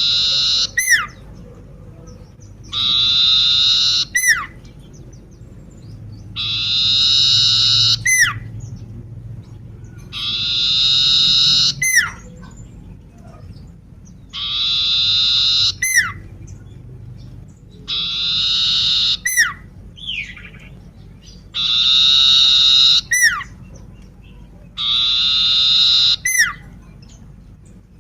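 Common iora (cipoh) singing. It repeats one phrase about every three seconds: a buzzy, drawn-out note about a second long, ending in a quick falling whistle.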